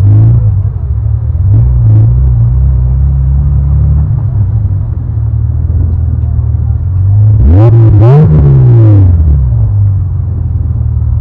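BMW E34 525i's inline-six idling with a deep, steady exhaust note, blipped once about seven and a half seconds in: the pitch climbs and falls back within about two seconds.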